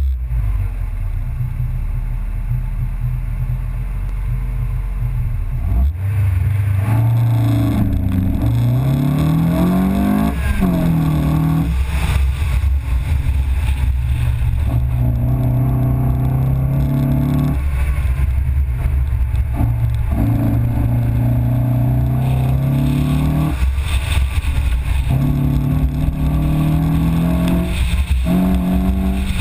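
A 1994 Mazda MX-5's four-cylinder engine runs steadily at first, then pulls away about six seconds in and revs hard through an autocross run. Its pitch climbs and falls repeatedly as it accelerates, changes gear and lifts off for the corners.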